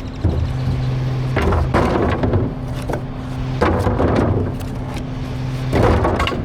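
Garbage truck engine running steadily, with repeated bursts of crashing and cracking about every two seconds as trash is thrown in and breaks up.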